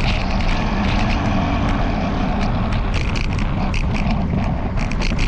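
Wind rumbling on the microphone of a bicycle-mounted camera, with the camera mount rattling in quick clicks, most busily in the second half.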